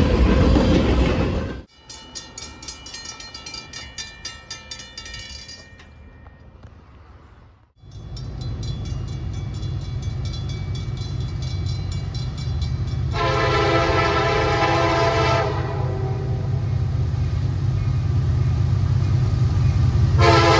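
A train passing trackside cuts off, then comes a fast, even ringing, then a loud, steady rumble of a diesel locomotive. Its multi-chime air horn sounds a blast of about two seconds and starts another near the end.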